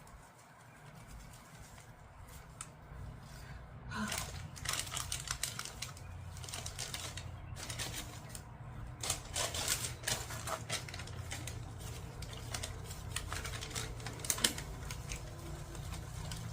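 Bursts of quick, irregular clicking and rattling, as from hands working with small parts and materials, over a steady low hum.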